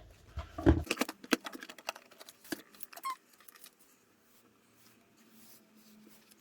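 Photocards being handled and rearranged on a table: a run of light taps and clicks over the first three seconds or so.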